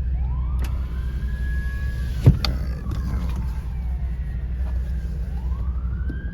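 Police siren wailing in a slow cycle: it rises, falls away, and rises again near the end. Underneath is a steady low car rumble, and a sharp knock comes about two seconds in.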